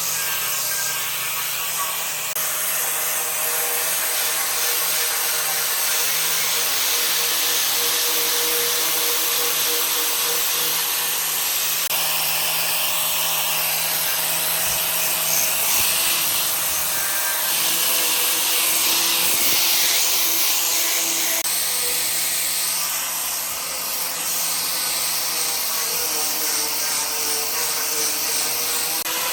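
Handheld electric power tool running steadily on metal, with a steady motor hum under a high, hissing grind.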